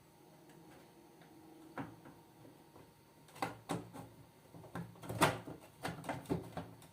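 Hard plastic parts of a single-tub washing machine being handled during repair: a scatter of sharp clicks and knocks, coming thick and fast from about halfway through.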